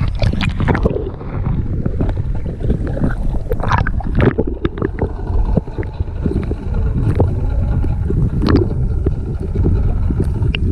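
Wind buffeting the microphone on a small fishing boat, a steady low rumble. Scattered knocks and clicks of gear against the hull run through it, with a louder pair about four seconds in and a single louder one about eight and a half seconds in.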